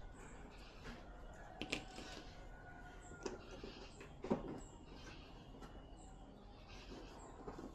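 A few faint, sharp clicks and taps of plastic TV panel parts being handled and fitted into place, spaced a second or more apart.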